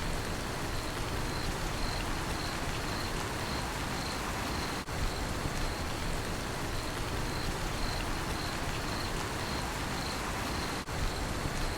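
Steady rain falling, with a cricket chirping in an even rhythm of about two chirps a second. The sound briefly dips twice, about six seconds apart.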